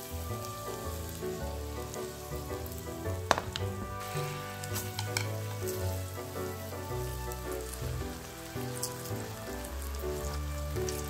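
Starch-coated tofu slices sizzling and crackling as they fry in oil in a nonstick pan, with a sharp click about three seconds in. Background music plays along.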